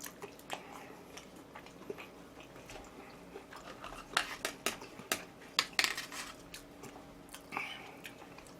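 Eating utensils clicking and clinking against dishes in scattered light taps, busiest around the middle.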